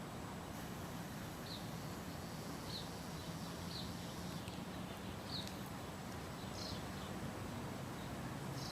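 A bird giving short, high chip notes, six of them about a second apart, over a faint steady low background hum.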